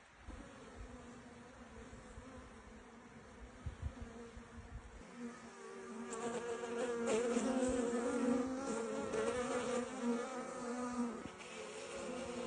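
Honeybee colony buzzing: a steady hum from a newly housed swarm busy building comb, swelling louder about halfway through.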